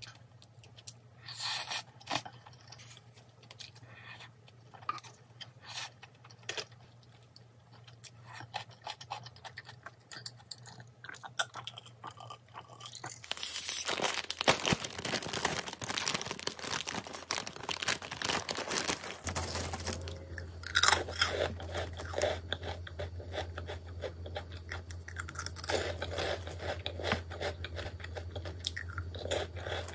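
Close-miked chewing and biting of crunchy food: scattered crunches at first, then dense continuous crunching from about halfway through.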